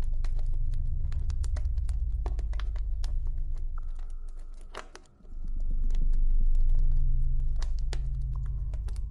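Campfire crackling with irregular sharp pops over a low rumble of the burning fire that swells, drops away about five seconds in, then swells back.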